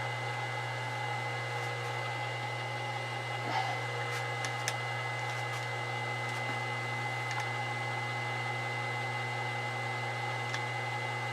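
Milling machine running a slitting saw through a clamped metal block: a steady machine hum and whine, with a few faint ticks about four seconds in.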